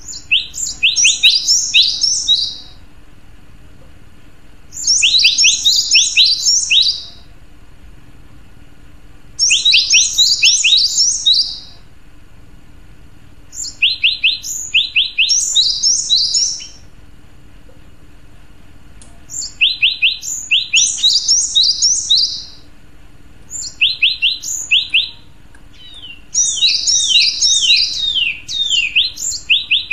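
Male cinereous tit (gelatik batu) singing: about seven phrases of quick, repeated high notes, each phrase about two seconds long, with short pauses between them.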